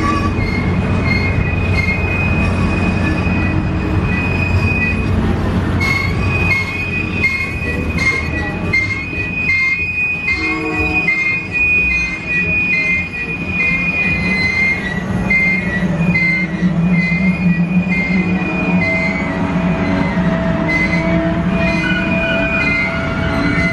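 Canadian Pacific Holiday Train's boxcars and passenger cars rolling slowly past with a steady rumble and high wheel squeal. Over it, from about six seconds in, a high ding repeats about one and a half times a second, a level-crossing bell.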